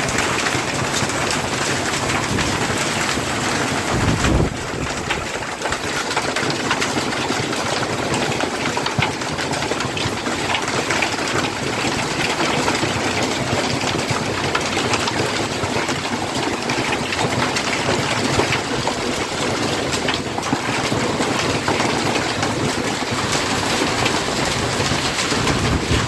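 Hail and rain pelting down in a storm: a dense, steady patter of many small hits. A gust of wind buffets the microphone about four seconds in.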